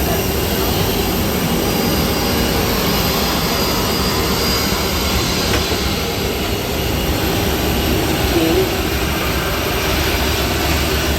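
Jet airliner's engines running, a steady even roar with a low rumble and a hiss above it.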